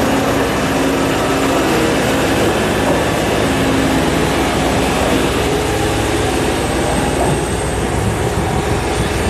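Diesel railcar running along the line: a steady rumble with a low engine drone that shifts slightly in pitch.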